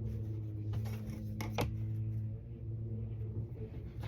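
Quilting fabric being trimmed, with two short sharp snips about a second and a half in. A steady low hum runs underneath.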